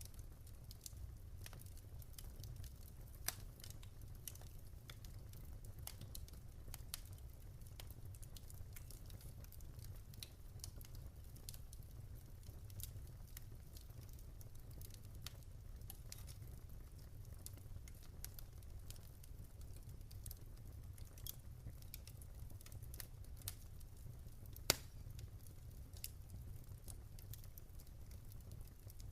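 Wood fire crackling in a fireplace: irregular sharp pops and snaps over a steady low rumble of the flames, with one louder snap about 25 seconds in.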